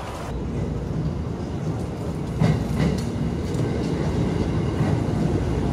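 JR West 281 series Haruka limited express train running in at a station platform: a low rumble, with a couple of sharp wheel clacks about two and a half and three seconds in.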